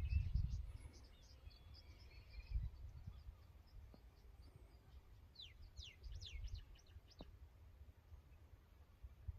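Small birds chirping, with a quick run of sharp falling chirps about six seconds in, over low rumbling on the microphone.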